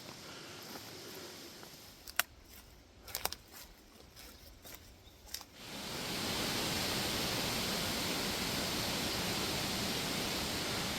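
A strong gust of wind rushing through the bush rises about six seconds in and holds as a steady, even roar of moving air. Before it, a few sharp twig snaps and crackles from footsteps in the undergrowth.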